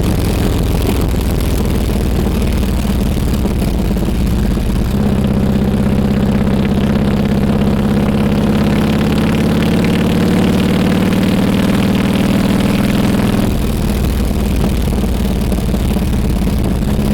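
Harley-Davidson Road King Classic's V-twin engine running. About five seconds in, the note changes abruptly to a steadier, higher-pitched run, then drops back about thirteen seconds in.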